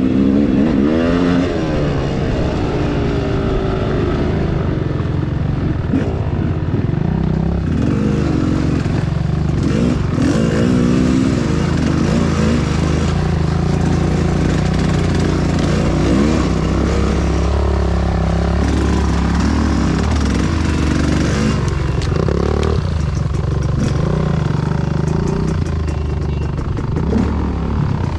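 Enduro motorcycle engine running hard off-road, its pitch rising and falling again and again with the throttle, with clattering over rough ground.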